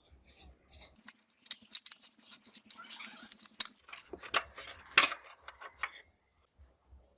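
Small hard parts being handled during a workbench restoration: a busy run of clicks, taps and scrapes, with the sharpest knock about five seconds in.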